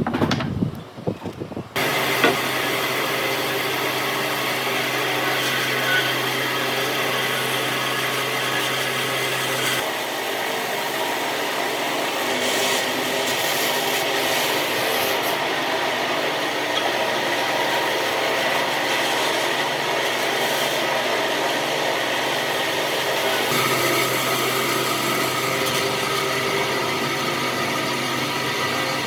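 An electric power tool runs continuously against wood after a few knocks, making a steady, rough abrading noise. Its low hum drops away for a stretch partway through and comes back near the end.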